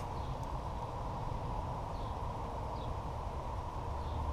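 Steady outdoor background rumble with a few faint, short high chirps.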